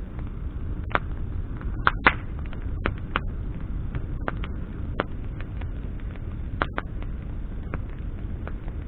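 Campfire of burning branches crackling: irregular sharp pops, a couple of them close together about two seconds in, over a steady low rumble.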